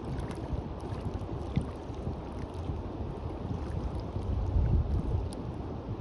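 Wind buffeting the microphone as a low, uneven rumble that swells about four to five seconds in, over the wash of surf on the beach.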